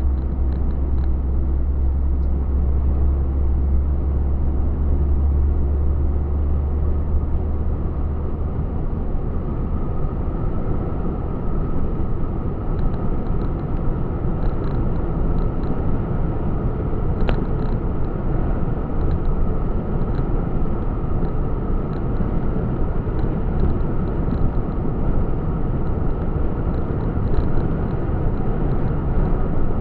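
Truck on the move: steady engine and tyre rumble on the road, with a strong deep hum that fades about a third of the way through.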